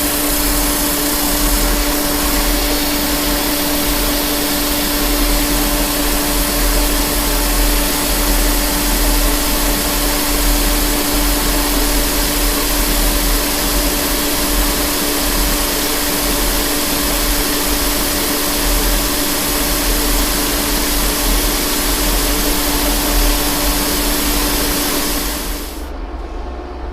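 Metal lathe turning a steel shaft, a carbide insert taking a heavy roughing cut with coolant running: a steady loud hiss over a constant hum. Near the end the cutting noise drops away suddenly, leaving a lower, quieter machine hum.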